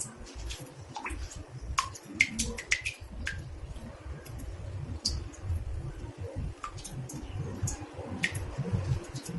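Water drops falling into a bathtub: irregular, sharp plinks, sometimes several in a second, over a low steady rumble.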